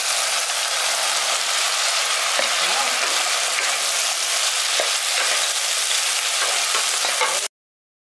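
Hot sauce sizzling steadily in a frying pan as fried soya-chunk pakoras are stirred into it, with a few light knocks against the pan. The sound cuts off suddenly near the end.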